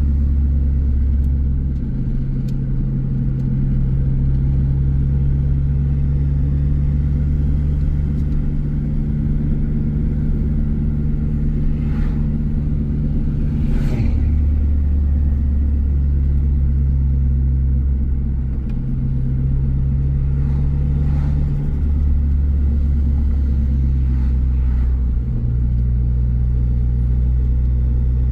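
Ford Focus ST's turbocharged four-cylinder engine droning steadily while the car is driven, its low engine note stepping to a new pitch a few times as speed or gear changes, with a couple of faint ticks near the middle.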